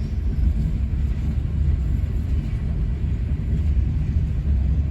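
Freight train rolling slowly past, a steady low rumble.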